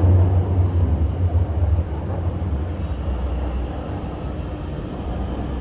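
Interior running noise of a Chengdu Metro Line 7 A-type train: a steady low rumble with a faint hum, which drops a little about two seconds in as the train slows toward the station.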